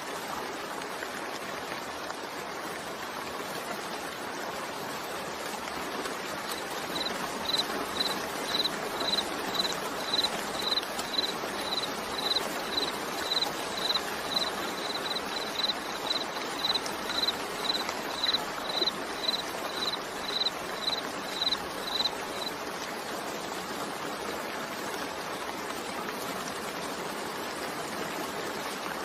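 Steady rain falling, an even rushing hiss. From about seven seconds in, a high-pitched beep repeats evenly about twice a second for some fifteen seconds, then stops.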